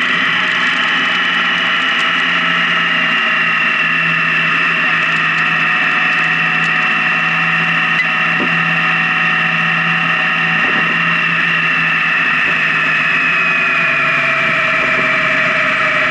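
Honda Gold Wing touring motorcycle cruising on the highway: steady engine and road noise, its pitch easing down slightly near the end.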